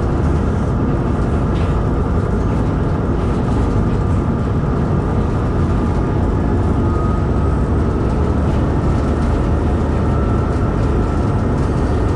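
S14 class diesel multiple unit train running along the line, heard from an open carriage window: a steady, deep rumble of the wheels on the rails and the running gear, with no distinct knocks or horn.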